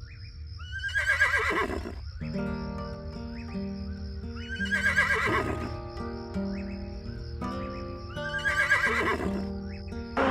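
A horse neighing three times, each a loud, wavering whinny that falls in pitch, over background music of sustained notes that comes in about two seconds in.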